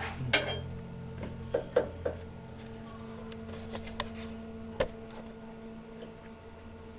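A few short light knocks and clicks of small metal parts being handled and positioned, the loudest about a third of a second in and a last one near five seconds, over a steady low hum.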